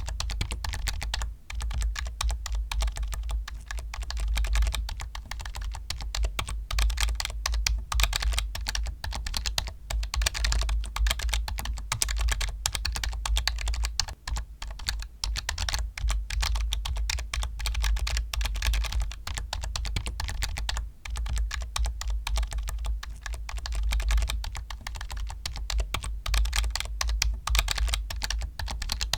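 Continuous fast typing on a computer keyboard: a dense, uneven stream of key clicks with a few brief pauses, over a low hum.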